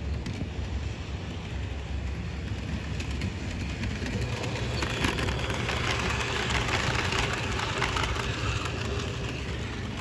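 HO-scale model train running on track: the electric motor hums and the wheels click over the rail joints, growing louder for several seconds in the middle as the train comes closer.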